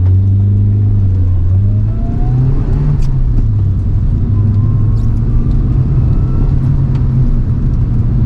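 Toyota AE111 Trueno's engine heard from inside the cabin, accelerating hard with its pitch climbing, then climbing again about five seconds in. A few sharp clicks sound along the way.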